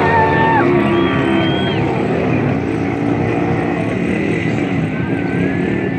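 Several dirt bike engines running together, their pitches rising and falling as the riders rev on and off the throttle.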